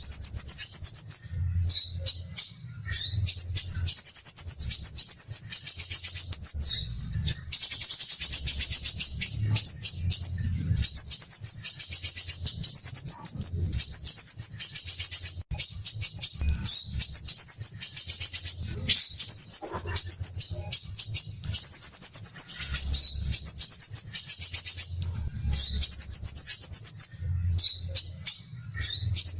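Crimson sunbird (sepah raja) singing a harsh, dense rapid trill ('besetan kasar rapat') in high-pitched phrases of one to three seconds with short breaks between them.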